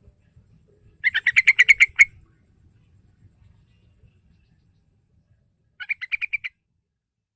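Yellow-vented bulbul (trucukan) calling: a fast run of about ten clear, chattering notes about a second in, then a shorter run of about seven notes near the end.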